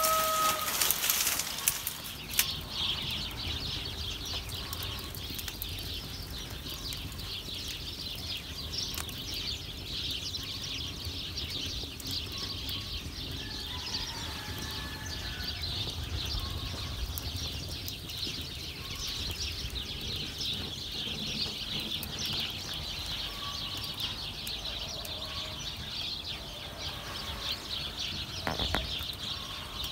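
Light rain pattering steadily, with faint chicken calls now and then.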